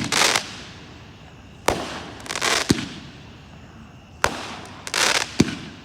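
An 8-shot consumer aerial firework cake ("VIP") firing single shots about every two and a half seconds. Each shot is a sharp launch thump followed about half a second later by a burst in the air.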